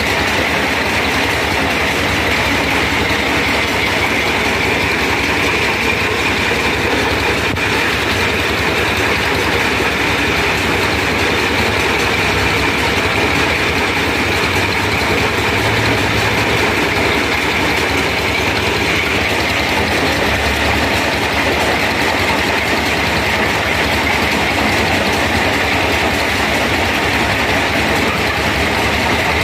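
Sonalika tractor's diesel engine running steadily at a constant speed, with an even low chugging throughout.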